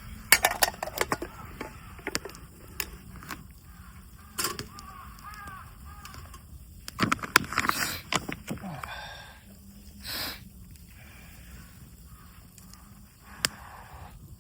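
Scattered sharp clicks and knocks of camp cookware and utensils being handled at a campfire meal, several loud near the start and again about seven to eight seconds in. A short wavering, squeaky sound about five seconds in.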